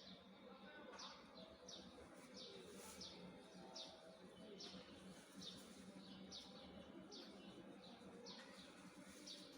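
Faint bird chirping: short, high, downward chirps repeated steadily, about one and a half a second, over a faint low hum.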